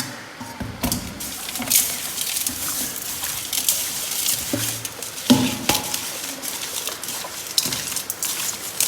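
Hands squeezing and kneading pig large intestine with coarse salt: irregular wet squelching and gritty crackling as the salt scrubs the slime off the intestine.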